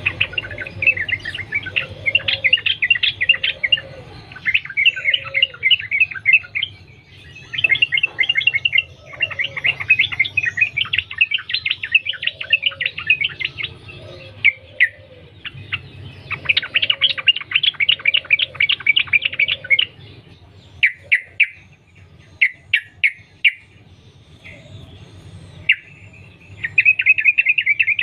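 Sooty-headed bulbul singing in long runs of rapid chattering notes, phrase after phrase with only short gaps. About two-thirds of the way through the song breaks into short separate phrases, then picks up again with a fast run near the end. Fainter, lower calls repeat underneath.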